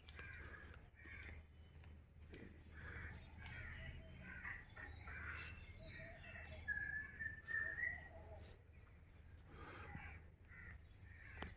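Faint bird calls repeated throughout, with a clear whistled note that rises slightly and is loudest about seven seconds in.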